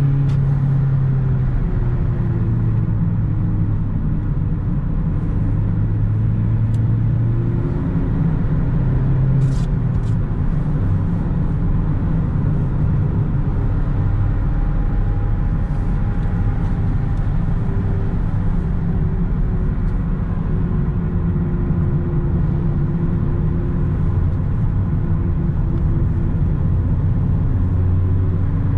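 Mitsubishi Lancer's 1.6-litre 4G18 four-cylinder engine running steadily while driving, with tyre and road noise underneath; the engine note drifts gently up and down in pitch, without hard revving.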